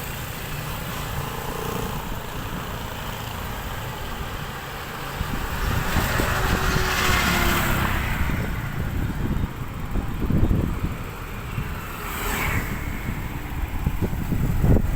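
Wind buffeting the microphone on a ride along a road, with an uneven low rumble, as vehicles pass: one swells and fades about halfway through, another briefly near the end.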